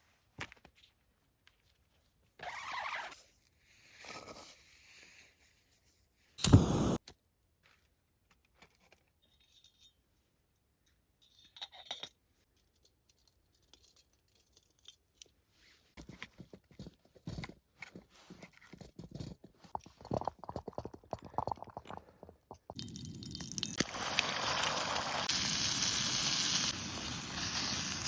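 Scattered scraping, crunching and crackling handling noises, with one sharp knock about six and a half seconds in, then a steady hiss over the last five seconds.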